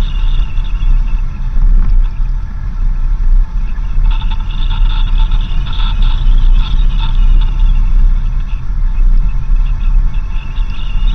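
4x4 vehicle driving along a dirt road: a loud, steady low rumble of engine and tyres, with steady higher-pitched tones over it.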